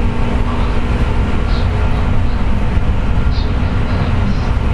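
A JR West 201 series electric train running, heard from inside the car: a steady low rumble of wheels on rails with steady whining tones over it, and brief faint high squeaks every second or two. The uploader puts this car's jet-like whine down to electrical erosion of the bearings.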